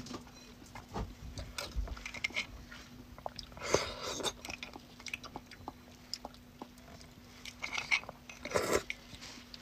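Close-miked eating sounds of soft beef bone marrow being chewed: wet mouth sounds and lip smacks with many small scattered clicks, a little louder about four seconds in and again near the end.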